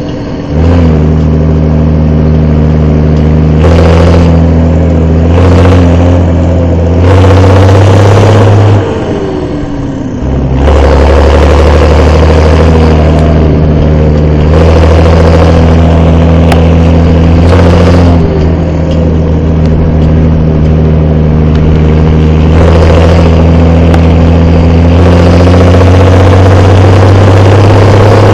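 Fendt 515C tractor's turbocharged diesel engine running loud and steady under load while pulling a heavy trailer. It eases off briefly about nine seconds in, then pulls hard again.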